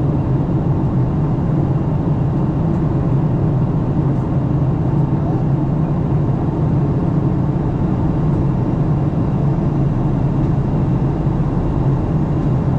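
Steady in-flight cabin drone of a Boeing 737-900 heard from a window seat: airflow and engine noise with a strong low hum, unchanging throughout.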